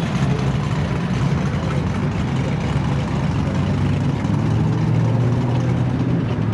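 Engine idling steadily with a low, even pitch.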